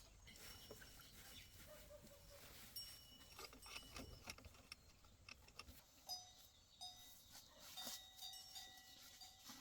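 Near silence, with scattered faint clicks and a few brief, faint high tones.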